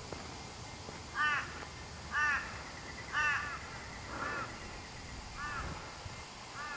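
A bird calling a series of six short calls, about one a second, the first three loudest and the rest fading.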